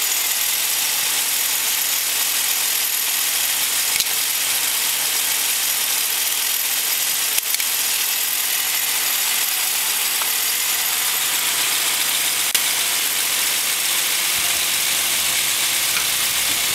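Ford 200 cubic-inch inline-six engine idling steadily, running on its freshly rebuilt and reinstalled cylinder head. The low part of its note shifts slightly near the end.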